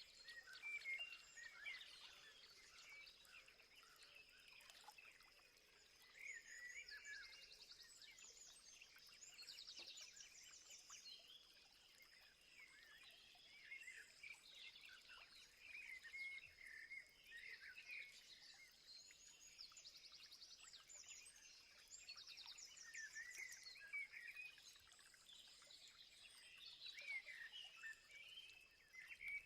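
Several small birds chirping and twittering at once, faint, with quick high trills that recur every few seconds and a steady thin high-pitched whine underneath.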